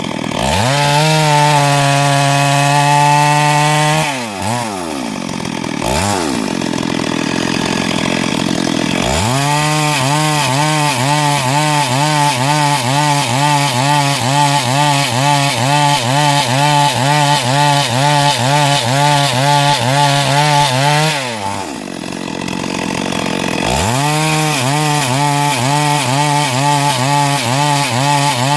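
Two-stroke chainsaw revved to full speed and let back to idle several times. During the long full-throttle runs its pitch wavers evenly as the chain works under load, cutting lengthwise through timber to make boards.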